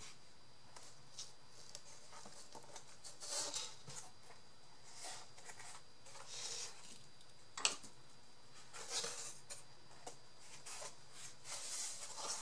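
Hands working craft materials: irregular short rustling and scraping sounds, with one sharp click about two-thirds of the way through.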